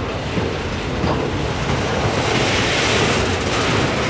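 Freight train of autorack cars rolling past: a steady rushing rumble of steel wheels on rail, growing a little louder and hissier about halfway through.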